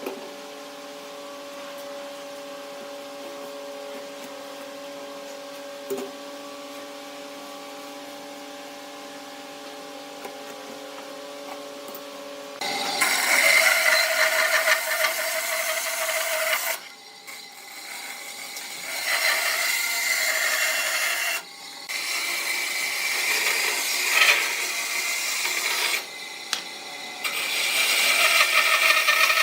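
A power tool's motor runs steadily with a hum. About halfway through it bites into wood: loud rasping in four long passes, with short breaks between them.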